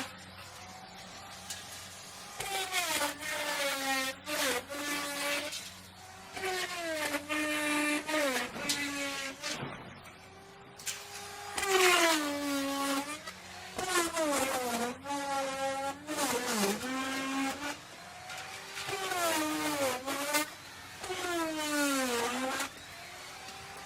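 Electric wood router cutting wood in about nine short passes. In each pass the motor's whine sags in pitch as the bit bites and rises again as it comes free, over a faint steady low hum.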